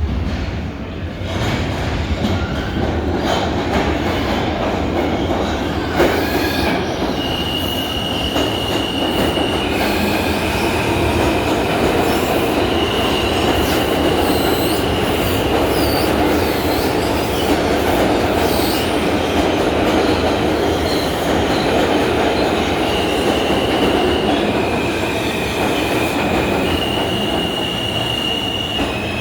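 R160A subway train running, with a steady rumble of wheels on rail and a sharp click about six seconds in. From about seven seconds on there is high-pitched wheel squeal, held notes stepping back and forth between two pitches.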